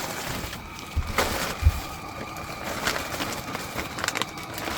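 Handling noise: a few scattered knocks and rustles as things are moved about, with two low thumps in the first two seconds.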